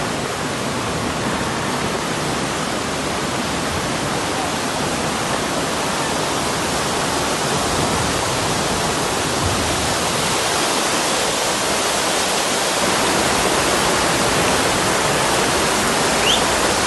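Heavy storm rain pouring down in a steady, dense downpour that grows slightly louder toward the end.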